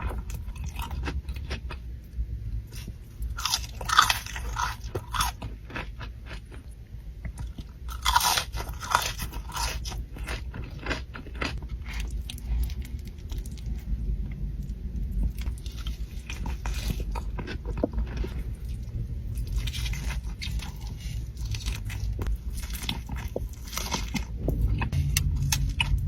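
A person biting into and chewing crunchy food, with loud crunches about four seconds in and again around eight seconds, and steady chewing in between.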